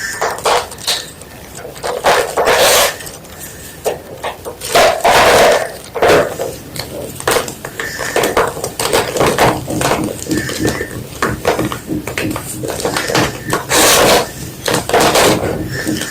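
A block of white gym chalk being crunched and crumbled: a run of irregular dry crunches, with louder ones every second or two.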